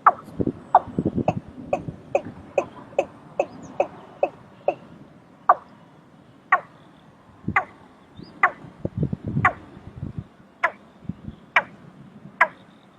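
Watercock calling: a series of short, sharp notes, quick at first and then slowing to about one a second, with deeper low sounds beneath near the start and again about two-thirds of the way through.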